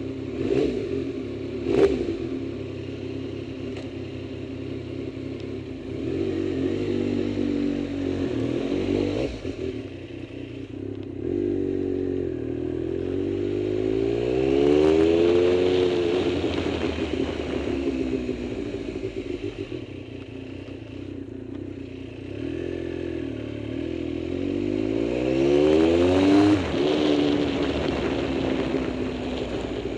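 A vehicle engine running steadily and twice rising in speed and dropping back, once midway and once near the end, with two sharp knocks right at the start.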